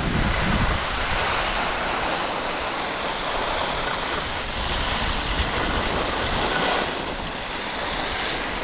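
Skis side-slipping down a snow race course: a steady scraping hiss of the edges on the snow, with wind rumbling on the microphone in the first second.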